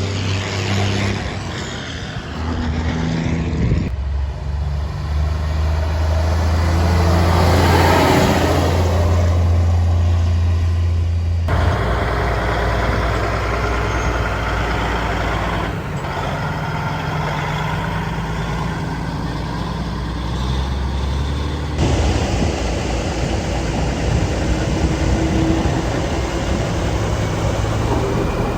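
Vintage trucks driving by with their engines running, in several short clips cut one after another; one pass swells loudest about eight seconds in.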